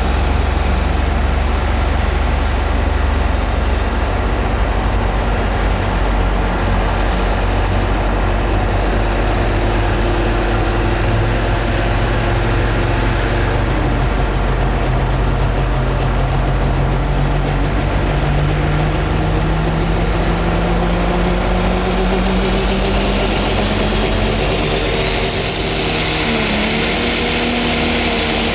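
Pro stock pulling tractor's turbocharged diesel engine running loud and steady, its pitch climbing slowly. A high turbo whistle rises near the end.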